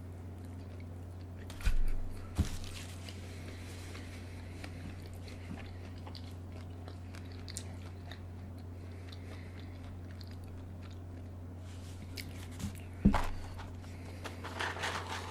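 Close-miked eating: biting and chewing food, with a few sharp, loud mouth clicks about two seconds in and again near the end, over a steady low hum.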